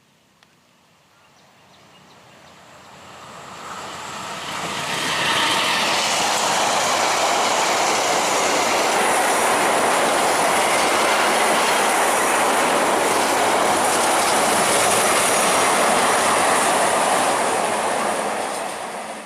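Train passing at speed: the rumble of wheels on rails builds up over the first few seconds, holds loud and steady with a thin high whine above it, then cuts off suddenly near the end.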